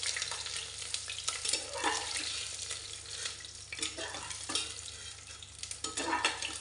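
Browned boiled eggs frying in hot mustard oil in an aluminium pressure cooker, sizzling steadily, while a spatula scrapes and knocks against the pot several times as the eggs are lifted out.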